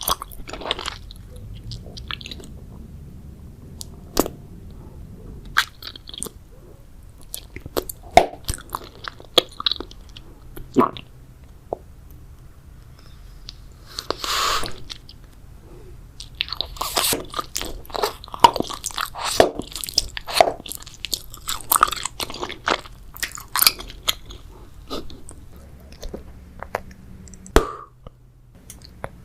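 Close-miked ASMR chewing of grape jelly: irregular wet mouth clicks and smacks, with a longer squelching bite about halfway through and a busier run of chewing after it.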